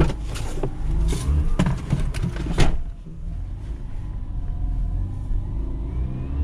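Mazda RX-8's two-rotor rotary engine idling steadily just after a hard start. A quick series of clicks and knocks sounds over it in the first few seconds, the loudest a sharp knock about two and a half seconds in.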